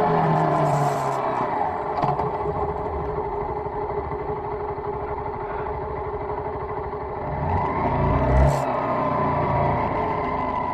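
Honda CBR125 single-cylinder motorcycle engine running under way. Its pitch falls in the first second, then rises as it accelerates about eight seconds in.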